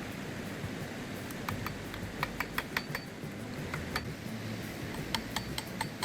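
Irregular light clinks and taps, some ringing briefly, coming in clusters over a low steady hum.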